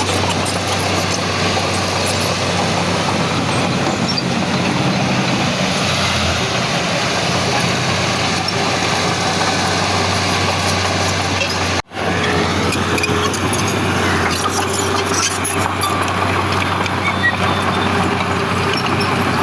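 Heavy diesel earthmoving machinery running steadily under load, a low engine hum over a wide mechanical clatter, with a momentary drop-out about twelve seconds in.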